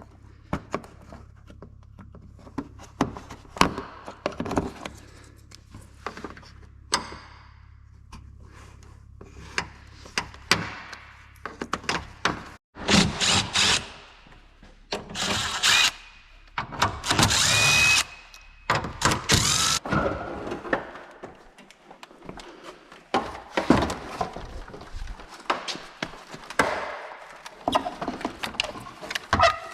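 Clicks, knocks and thunks of tools and fasteners as a pickup truck's front end is taken apart, with two short runs of a cordless power tool about halfway through.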